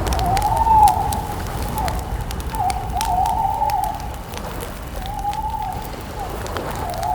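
Campfire crackling, with frequent small pops over a low rumble. Behind it runs a steady, wavering tone that swells and dips about once a second.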